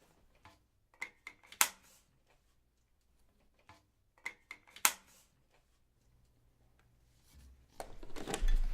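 Sharp clicks and clatter of hard objects being handled, in two short bursts with quiet between them. Near the end a louder, continuous rustling noise starts up.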